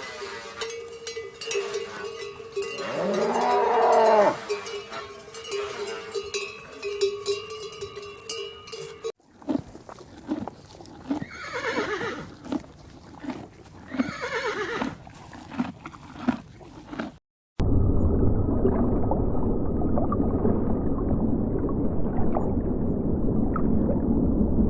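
A string of separate farm-animal call recordings that cut off abruptly, one after another. The first has one loud call that rises and falls in pitch over a steady tone. The second has repeated calls with two long falling cries. The third, from about two-thirds of the way in, is a dense, even low rumbling noise.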